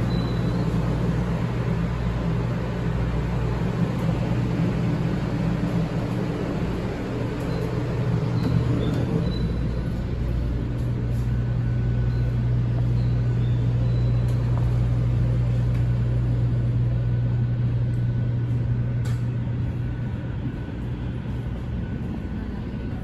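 Steady low hum of a 500 series Shinkansen car's onboard equipment while the train stands at the platform, with a strong low tone that swells a little through the middle.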